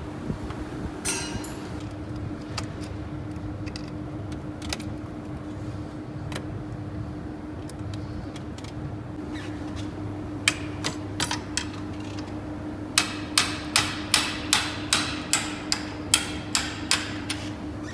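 Hammer tapping on metal engine parts during a teardown: a few scattered knocks, then about a second and a half later a quick run of roughly fourteen sharp metallic strikes, about three a second, over a steady hum.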